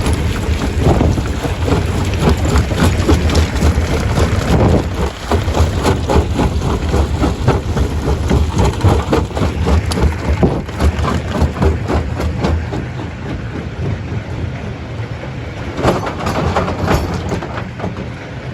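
Stone crusher running and crushing rock: a heavy, steady rumble under dense, irregular clatter and knocking of stones breaking and tumbling. It eases slightly in the second half.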